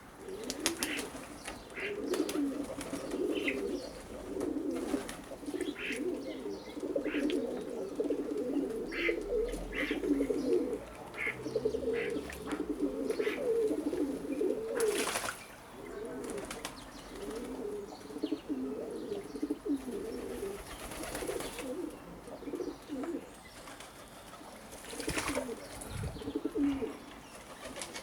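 Doves cooing over and over, low repeated phrases, with small birds chirping faintly and three short bursts of noise in the second half.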